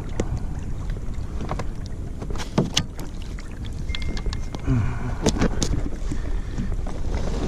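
Scattered knocks and scrapes of a large halibut being wrestled into a fish bag on a kayak, over a steady rumble of wind on the microphone.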